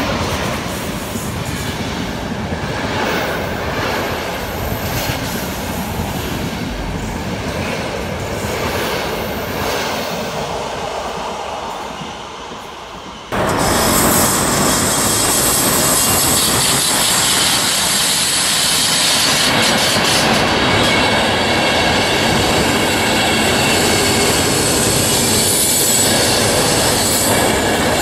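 Electric-hauled Intercity train passing close by on the rails. About halfway through the sound cuts abruptly to another, louder passing of Intercity coaches, with a high-pitched screech from the wheels over the running noise.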